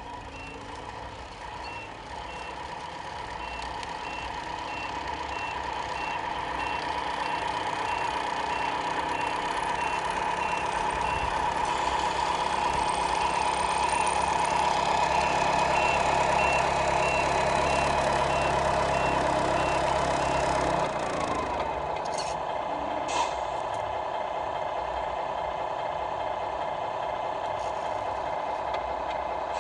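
Electronic sound unit of a Tamiya remote-control Scania truck playing a diesel engine note with a reversing beeper sounding at a steady pace. The engine sound gets louder over the first half; about 21 seconds in the beeping and the deep part of the engine sound stop, and a steadier running tone carries on.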